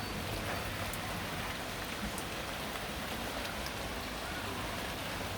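Steady heavy rain falling and pattering on surfaces, with faint scattered drop ticks.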